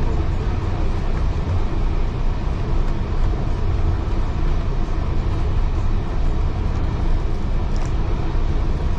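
Steady low rumble of a heritage railway carriage running along the track, heard from inside the carriage.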